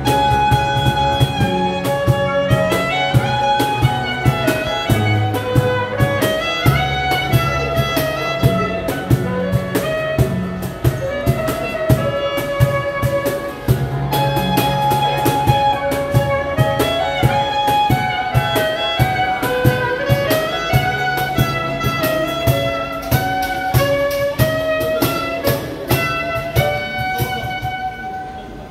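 Live instrumental pop cover: a bowed haegeum carries the melody over accompaniment with a steady beat and bass line. The music comes to an end near the end.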